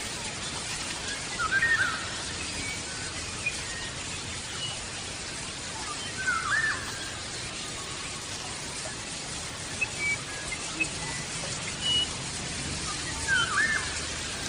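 A bird calling outdoors: three loud, alike short looping calls, about one every five or six seconds, with fainter chirps between, over a steady hiss.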